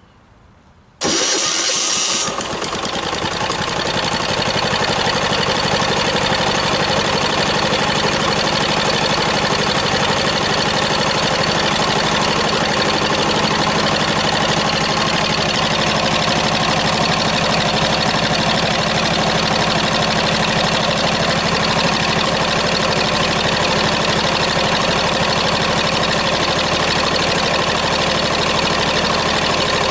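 Straight-piped 10 hp single-cylinder diesel (a 186F-type Yanmar L100 clone) with its muffler cut off: it starts about a second in, then runs loud at a steady speed.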